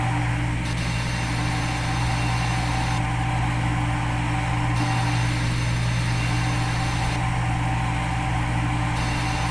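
Steady machine hum of a CNC milling simulator's spindle and cutting sound, with a high hiss that switches on and off every two or three seconds.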